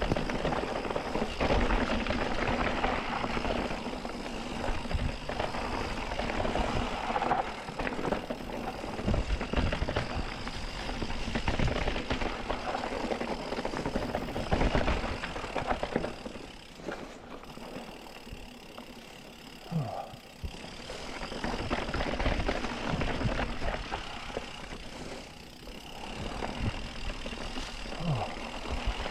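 Mountain bike rolling down a rocky dirt singletrack: tyre noise with the bike rattling and knocking over bumps, easing off for a while partway through and picking up again.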